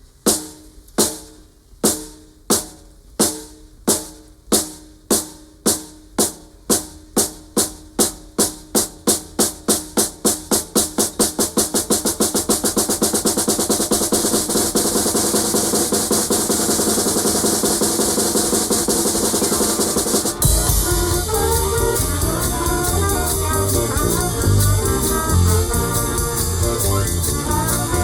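Drum strokes, about two a second at first, speeding up steadily into a continuous drum roll that builds for several seconds. About twenty seconds in, the full band comes in at once.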